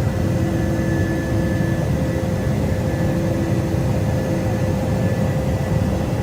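Steady drone of an aircraft in flight, engine and airflow noise with a few constant humming tones over a low rumble, during air-to-air refuelling.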